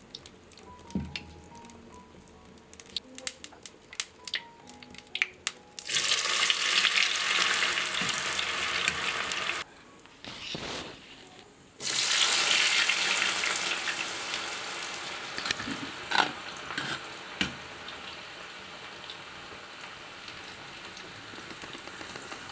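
Cut breadfruit pieces frying in hot oil in a wok: scattered small pops and crackles, then a loud sizzle that starts suddenly about six seconds in. The sizzle stops briefly near ten seconds, comes back strongly and slowly eases as the pieces fry, with a few sharp clinks of the ladle against the wok.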